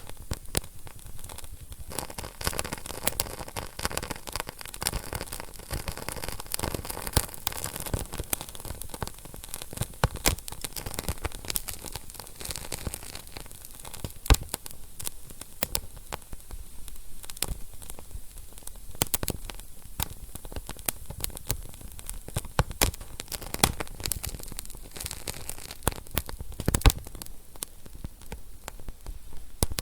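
Wood fire burning in a fireplace: a soft hiss full of irregular crackles, with a few louder pops.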